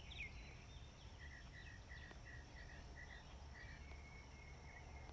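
Faint bird chirps: a few falling chirps at first, then a run of short, evenly spaced chirps about three a second, then a thin, steady high note held for over a second, over a low background hum.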